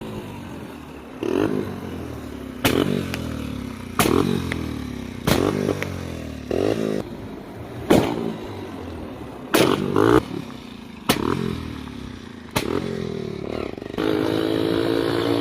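Motorcycle engine revved in short bursts about every second and a half, each burst starting with a sharp knock or clatter and dying away.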